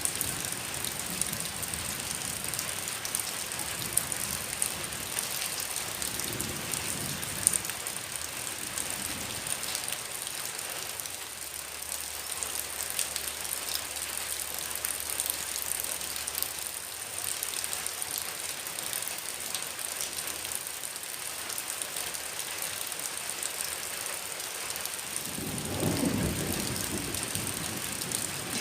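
Heavy rain falling steadily, with many small sharp drop impacts over an even hiss and a steady high tone. Near the end a low rumble swells for a few seconds.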